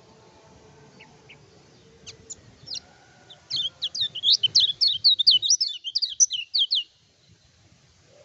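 Kecial kuning, a small white-eye songbird, gives a few scattered sharp chirps, then from about three and a half seconds in a rapid, loud run of high sweeping notes, roughly four or five a second, that stops abruptly about three seconds later.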